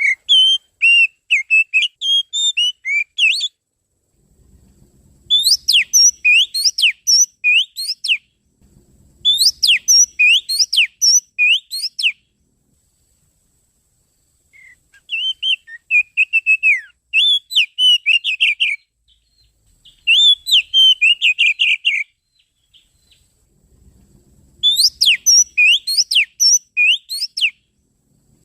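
Oriental magpie-robin (kacer) song played as a lure call: six phrases of fast, varied whistled notes, each a few seconds long, with short pauses between them.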